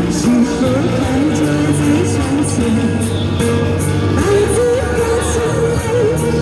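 Singing of a Chinese pop song over a backing track, the sung melody wavering with vibrato above steady bass notes.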